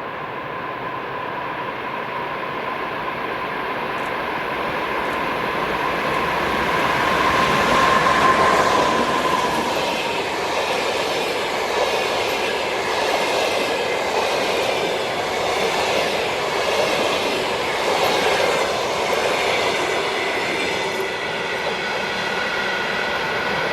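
EP2K electric locomotive hauling a passenger train past at speed: it comes closer and loudest about eight seconds in, its high whine dropping in pitch as it goes by. The passenger cars follow, their wheels clattering rhythmically over the rails.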